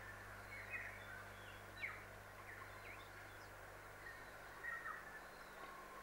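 Faint birdsong: scattered short chirps and brief falling whistles, over a low steady hum.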